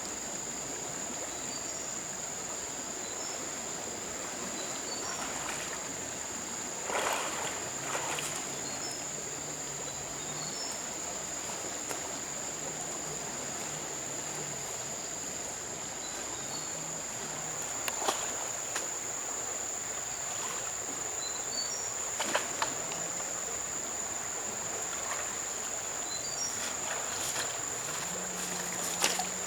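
Outdoor ambience dominated by a steady high-pitched insect drone, with small bird chirps every second or two. A few brief sharp knocks stand out, about a quarter of the way in, past halfway, and near the end.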